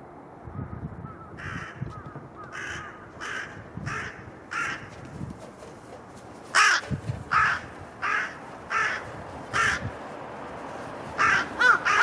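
Crows cawing: a series of about five short, harsh caws, then a louder series of five, with another quicker run starting near the end. Low surf and wind rumble underneath.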